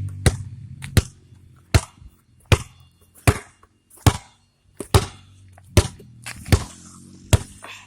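Sharp knocks repeating evenly about every three-quarters of a second, with a low engine hum fading out near the start.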